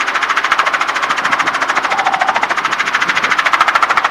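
Helicopter in flight: rotor and engine noise as a fast, steady, even chop.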